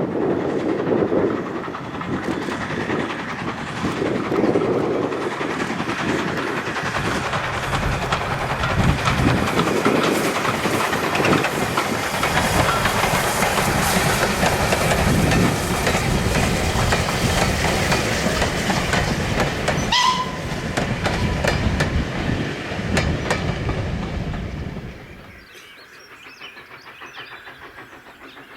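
Steam-hauled train passing close by: a steady rumble and clatter of wheels over the rails, with a brief high-pitched tone about 20 seconds in. The noise drops away sharply about 25 seconds in.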